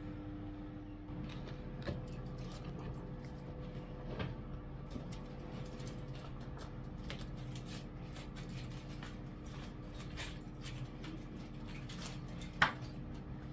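Scattered light clicks and taps of small objects being handled, with one sharper click near the end, over a steady low hum.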